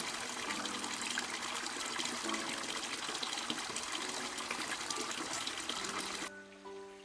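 Water running or pouring, a steady splashing hiss that cuts off suddenly about six seconds in, over soft background music.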